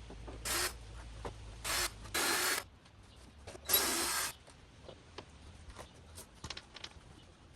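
Tool work on car fasteners: four short, noisy bursts in the first half, then scattered light clicks and taps.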